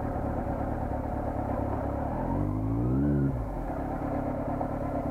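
Honda CBR400RR's inline-four engine running, revving up once about two seconds in with a rising pitch that peaks as the loudest moment, then settling back to steady running.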